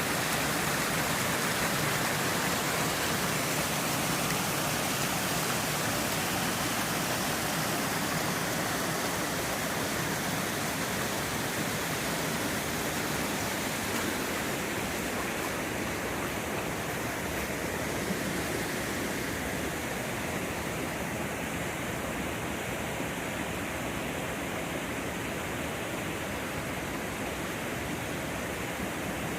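Steady rush of falling water from a creek or waterfall. The higher hiss in it fades somewhat about halfway through.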